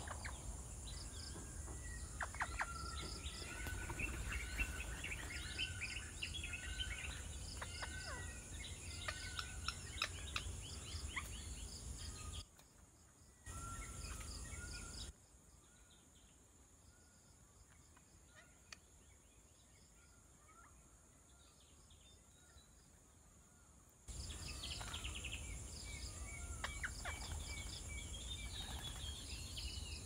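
Birds chirping and whistling in many short, quick calls over a steady high hiss and a low rumble. The sound drops away abruptly about twelve seconds in, comes back briefly, then gives way to a quieter stretch with fainter calls before returning about twenty-four seconds in.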